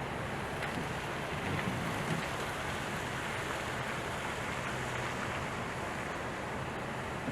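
Strong gusty wind blowing, an even rushing noise with a low steady hum underneath.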